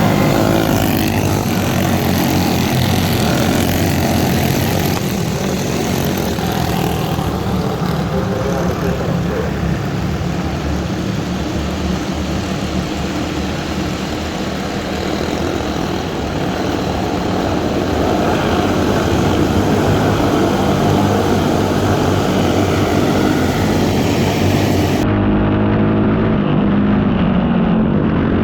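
Four-stroke racing kart engines running at race speed, the pitch rising and falling as the karts accelerate and lift off. An abrupt change in the sound near the end marks a cut to another piece of footage.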